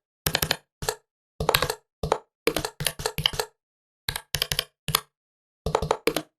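Typing on a laptop keyboard in short bursts of a few keystrokes each, with dead silence between the bursts.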